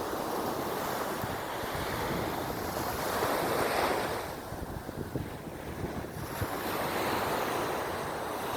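Sea waves washing ashore, with wind buffeting the microphone. One wave surges to a peak about four seconds in and draws back, and another builds near the end.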